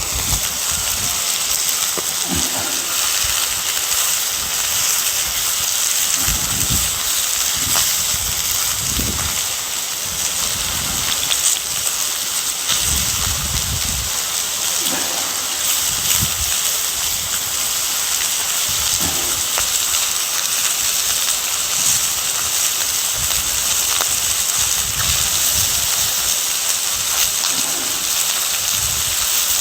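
Wood cooking fire hissing and crackling steadily under grilling sea bass, with irregular low rumbles now and then.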